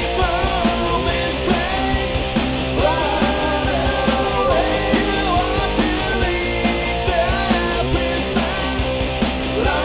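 Rock band playing with electric rhythm guitars and bass, a sung vocal line and a steady beat.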